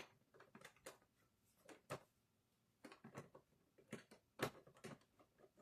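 Light, irregular clicks and taps of a model train locomotive being handled and set on the track, with near silence between them.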